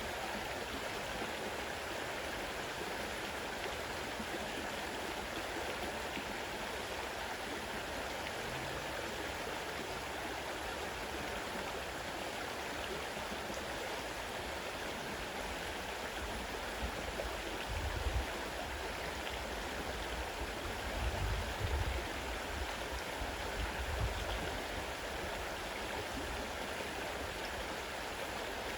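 Fast-running river: a steady rush of flowing water. A few brief low rumbles come in about two-thirds of the way through.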